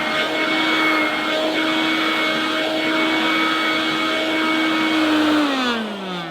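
Hoover Dustvac mains-powered hand-held vacuum cleaner running with a steady whine, sounding a bit rough and rattly. About five seconds in it is switched off and its small motor winds down, the pitch falling.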